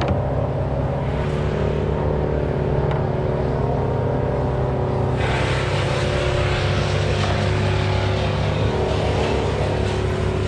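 An engine running steadily at a constant speed, with a loud rushing hiss joining about halfway through and continuing.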